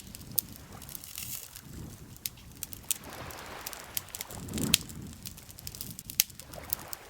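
Wood campfire crackling, with sharp scattered pops, the loudest about two-thirds of the way through. Beneath it, soft low swells of lake water lapping.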